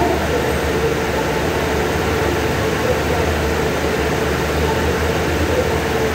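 Stationary diesel passenger train at a platform, its engines and air-conditioning units running steadily at idle: an even, unbroken hum.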